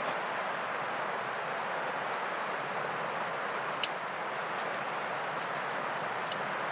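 Steady rushing noise of wind and rain in woodland, with two sharp clicks, one near the middle and one near the end.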